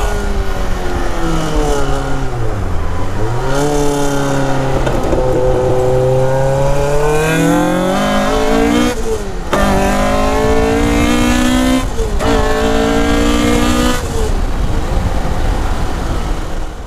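Caterham R500 Superlight's Rover K-series four-cylinder engine, heard from the open cockpit while driving. The revs fall, then climb hard, with short breaks at gear changes about nine, twelve and fourteen seconds in.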